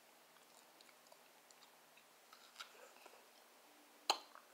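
Quiet close-up chewing of fried barbecue ribs, with small wet mouth clicks scattered through and one sharp click near the end, the loudest sound.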